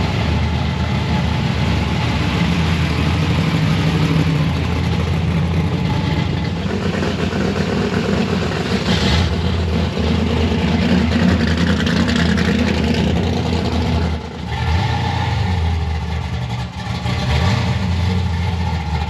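Car engine running while driving, a steady low drone, with the engine note rising and falling in the middle as it changes speed.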